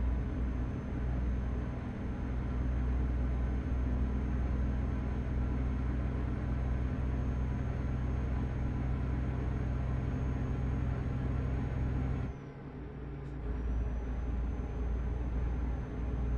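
Truck engine droning steadily while driving, heard from inside the cab. About twelve seconds in, the sound briefly dips and thins out for about a second, then returns.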